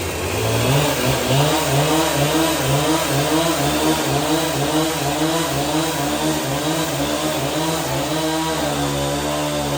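An engine running, its pitch wavering up and down about twice a second, then holding steadier near the end.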